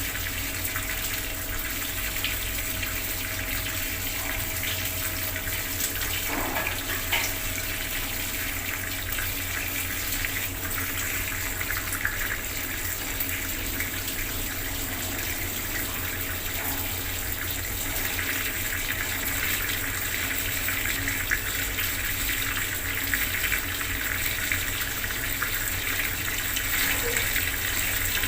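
Bathroom water tap running steadily, water splashing down with a constant rushing hiss.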